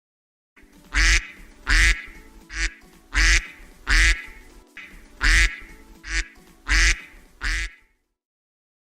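A duck quacking over and over, about ten loud quacks at an even pace.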